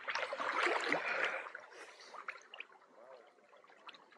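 Seawater splashing and sloshing around someone getting into the water, fading away after about two seconds to a few faint drips.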